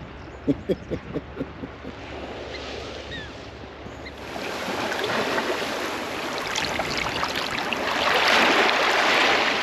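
Surf washing in: a wave's hiss builds over several seconds and is loudest near the end. A quick run of short knocks comes about a second in.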